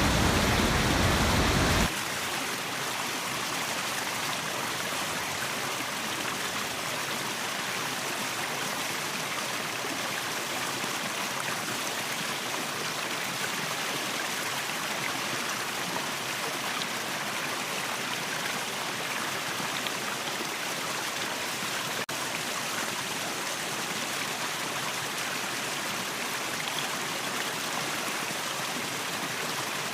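Waterfall and stream water rushing steadily. About two seconds in, the sound drops abruptly to a quieter, thinner rush without the deep rumble, and it stays steady after that.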